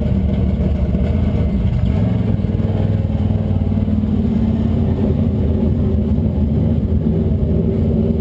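A figure-8 race car's engine idling, heard close up from the cockpit. It runs steadily at a low pitch, with only slight changes in its note.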